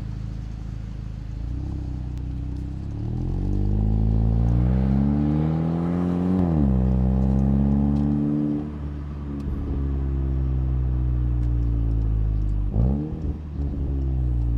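2019 Volkswagen Jetta GLI's 2.0-litre turbocharged four-cylinder heard through its Neuspeed stainless cat-back exhaust, accelerating with the revs climbing, dropping sharply at a quick DSG upshift about six and a half seconds in, then climbing again before settling to a steady cruise. Near the end a sharp crack comes with a quick dip and rise in revs.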